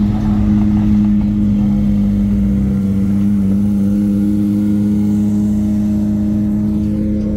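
A car engine running loud at a steady, held pitch, with a slight dip about halfway through.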